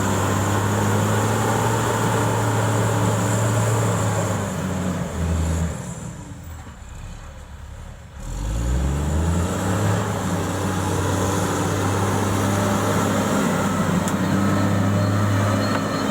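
Heavy-equipment diesel engine running steadily under load. About six seconds in it drops off and goes quieter for a couple of seconds, then revs back up with a rising pitch and settles again.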